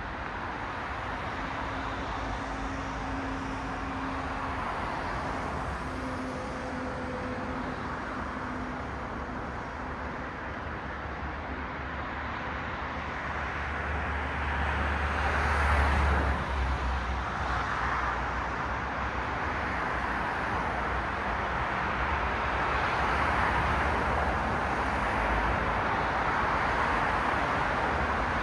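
Road traffic passing on a city street: a steady wash of tyre and engine noise, with one car passing close and loudest about halfway through.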